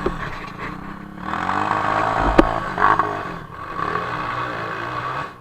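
Single-cylinder 230 cc trail motorcycle engine revving up and down as it works through mud, with one sharp knock about two and a half seconds in.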